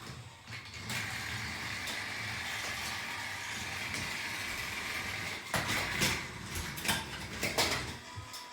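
Battery-powered toy train motors whirring steadily for about four and a half seconds, then a run of irregular plastic knocks and clatter.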